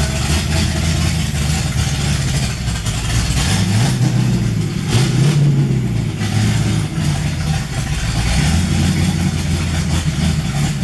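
Ford 351 Windsor small-block V8 running on its first startup after a build. It idles steadily, with the revs rising and falling briefly a couple of times about four to six seconds in.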